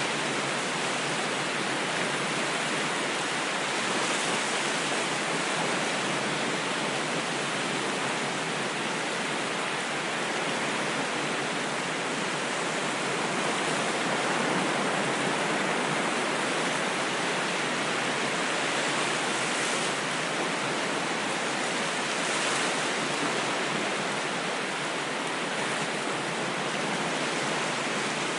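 Ocean waves washing in a continuous, even hiss with only slight slow swells and no distinct breaks.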